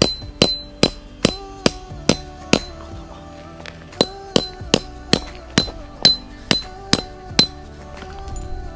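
Hammer blows on a metal tent peg, about two and a half a second, each with a short bright ring. There are seven blows, a pause of about a second and a half, then nine more. A song's instrumental backing plays underneath.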